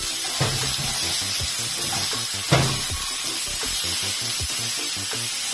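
Tomatoes and onion sizzling as they fry in a nonstick skillet, with background music. A plastic spatula knocks against the pan twice, once about half a second in and once, loudest, about two and a half seconds in.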